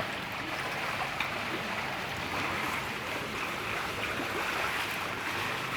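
Steady rushing of floodwater running over a street.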